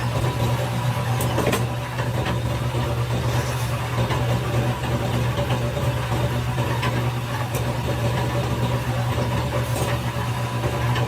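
Steady low machine hum with a faint steady whine, broken by scattered light clicks and knocks, as of factory machinery running.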